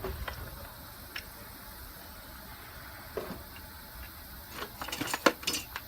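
Hand tools being handled: a few scattered clicks, then a quick run of clinks and knocks near the end, over a steady low hum.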